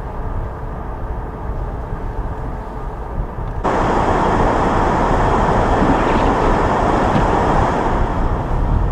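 A car driving through snow, heard from inside the cabin as a low road rumble. A little over three and a half seconds in, a loud steady rushing noise switches on abruptly and holds.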